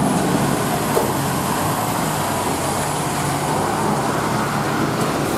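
Road traffic: steady engine and tyre noise of passing vehicles.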